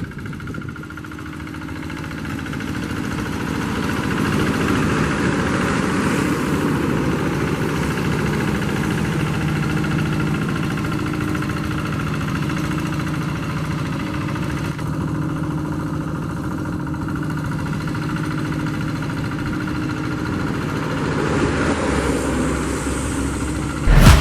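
Hand tractor's diesel engine running steadily under way. It grows louder over the first few seconds, then holds an even note. Loud music cuts in at the very end.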